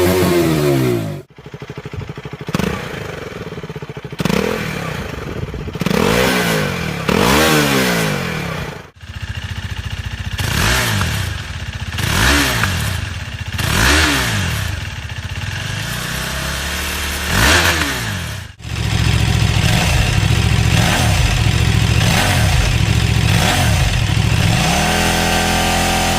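KTM RC-series sport motorcycle engines revved one after another in separate clips with hard cuts between them. In the first two clips the engine is blipped repeatedly, each rev rising and falling. In the last clip it holds a steady high note, then climbs near the end.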